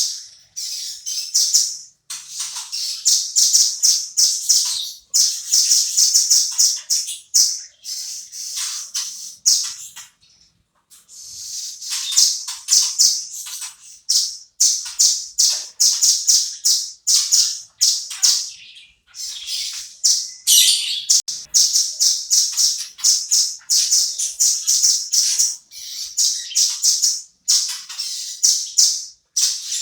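Velvet-fronted nuthatch (rambatan) calling vigorously: long runs of rapid, high, sharp repeated notes in bursts of a few seconds. The bursts are broken by short pauses, with a longer gap about ten seconds in.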